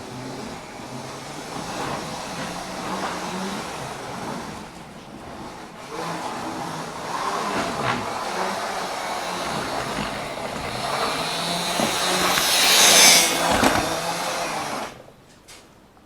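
Model train running on the layout track, its motor and wheels growing louder as it comes close, loudest about thirteen seconds in, then cutting off suddenly near the end.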